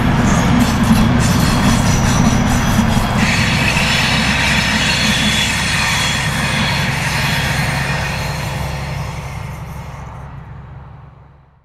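Railway train rolling past, a dense rumble of wheels on rails with a high hiss or squeal joining about three seconds in. The sound fades away over the last few seconds and then cuts off.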